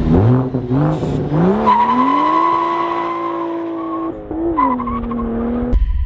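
Toyota GR Supra (A90) engine through an MBRP aftermarket exhaust, revving: a few short climbs in pitch, then a longer climb held high for about two seconds, a drop and a quick blip before it settles lower. The sound cuts off suddenly near the end.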